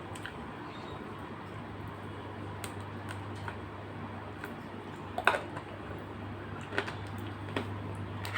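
Eating at a meal: a few light clicks and taps of utensils or plate, the sharpest about five seconds in, over a steady low hum.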